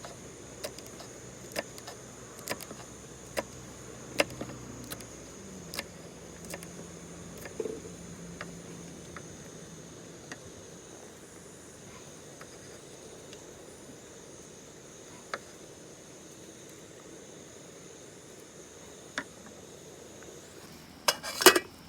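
A steady high insect trill, typical of autumn crickets, carries on under scattered sharp clicks and clinks. The clicks come about once a second early on and thin out. A louder short clatter comes near the end.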